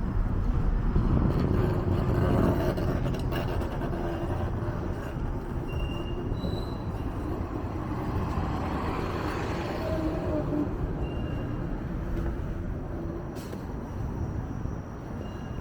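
Toronto 501 Queen streetcar, a Flexity Outlook, running on its rails with a steady low rumble and a few brief high-pitched tones. The rumble eases off slowly toward the end.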